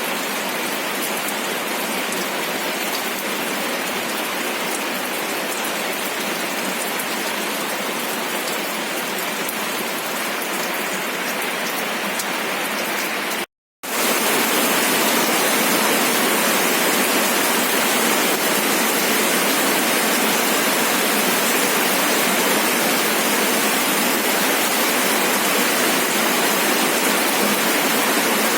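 Steady rain falling, with the patter of individual drops audible. About halfway it cuts out for a moment, then comes back louder as a denser, more even rush of heavy rain.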